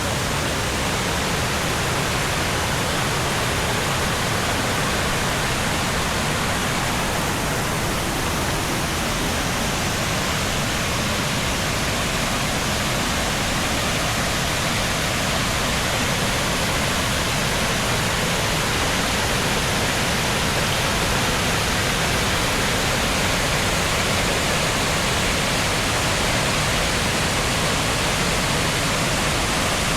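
Water pouring down a tier of a limestone cascade waterfall: a steady, unbroken rush.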